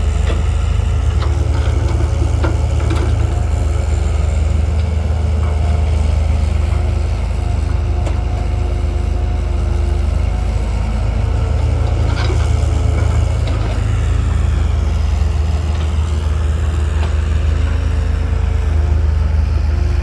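Heavy diesel engine idling steadily, with a few faint clicks and knocks over the top.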